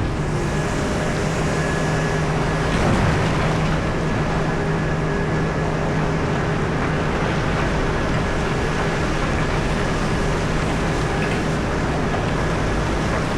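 Komatsu PC4000 hydraulic mining excavator running steadily, a constant engine drone with a faint high whine, swelling slightly about three seconds in.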